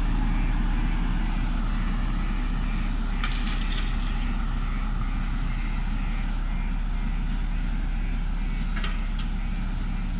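JCB backhoe loader's diesel engine running steadily under work, with two brief scraping clatters, about three seconds in and near the end.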